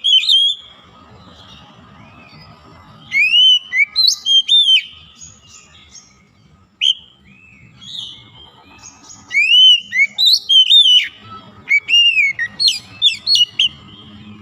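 Oriental magpie-robin singing: loud, whistled phrases of quickly rising and falling notes, delivered in several bursts of a second or two with short pauses between.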